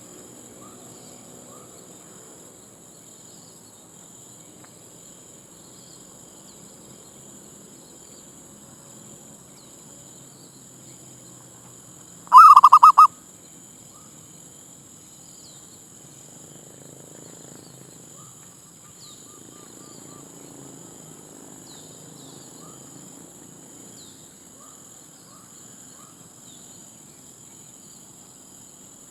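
Zebra dove giving one short, loud burst of rapid, stuttering cooing notes about midway, with fainter dove notes and scattered bird chirps in the background.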